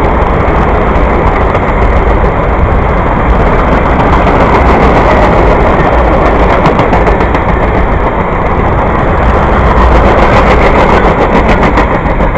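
Freight train of tank cars rolling past close by: a loud, steady rumble and rattle of steel wheels on rail, with a run of rapid clacks in the second half.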